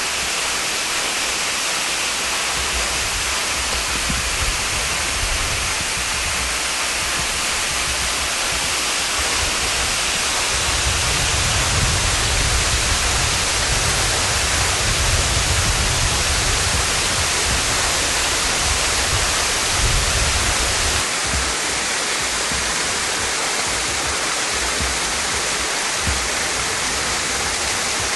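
Partly frozen waterfall pouring steadily, an even rushing hiss. A deeper low rumble swells in about ten seconds in and drops away again about twenty-one seconds in.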